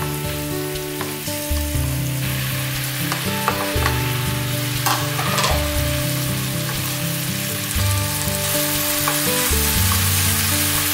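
Tomato-chili sauce and sliced eggplant frying in a nonstick pan, stirred with a wooden spoon: a steady sizzle that grows stronger in the second half, with a few light clicks from the spoon about halfway through.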